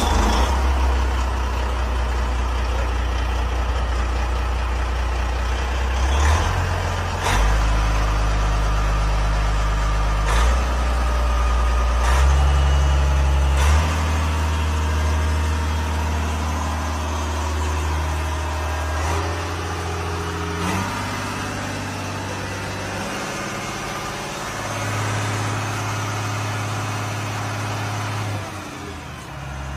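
Volvo Penta boat engine running loudly, its low hum stepping up and down in speed every few seconds.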